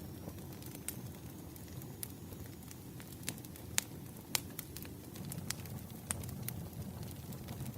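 Campfire burning: a steady low rumble with scattered sharp crackles and pops from the burning wood, the loudest snaps coming in the middle.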